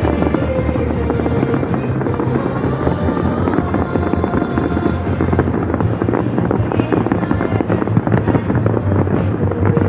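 Fireworks bursting and crackling in a dense barrage over music played loud through the show's speakers, with a steady low rumble underneath.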